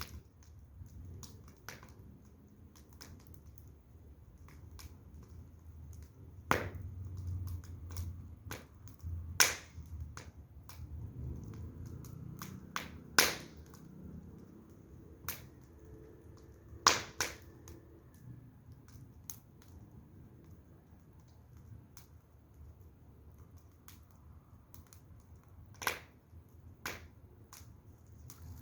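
Firewood burning in an open fire, crackling with irregular sharp pops, a handful of them louder than the rest, over a faint low rumble.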